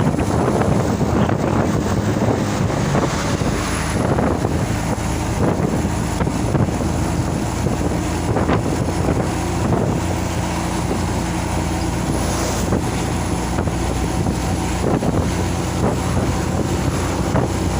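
Truck engine running steadily under way, with road and wind noise rushing over it.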